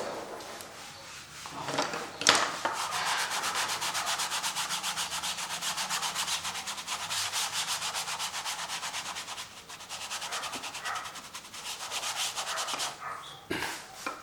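Acrylic paint being scrubbed onto a canvas with rapid, even back-and-forth strokes, several a second, giving a dry, scratchy rubbing. A sharp knock comes about two seconds in, and near the end the strokes break into a few separate swipes.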